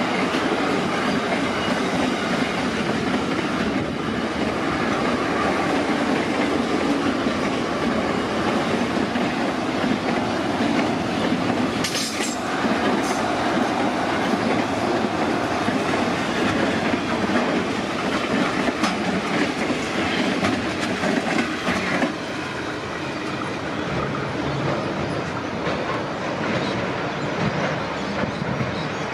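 Freight train's container wagons rolling past at speed, a steady loud rumble and rattle of wheels on rail, with a few sharp clicks about twelve seconds in. About two-thirds of the way through, the sound drops suddenly to a quieter, more distant rumble as the rear of the train moves away.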